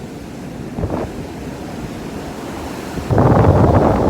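Ocean surf on the beach with wind buffeting the microphone; about three seconds in, the rush suddenly gets much louder.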